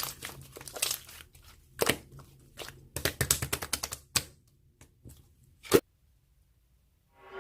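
Irregular light clicks and taps, the loudest about two seconds in and a sharp knock near the end, followed by a short gap.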